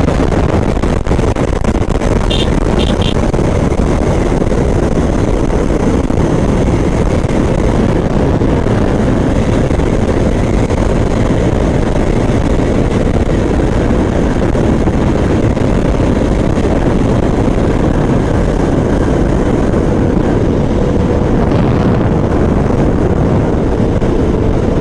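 Steady wind rush and road noise of a motorcycle at highway speed, with the bike's engine underneath. Three short high beeps about two to three seconds in.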